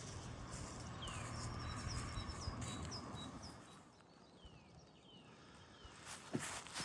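A small songbird singing a short high trill and a few descending whistled notes, over a low steady outdoor noise that fades about four seconds in. A single sharp knock comes near the end.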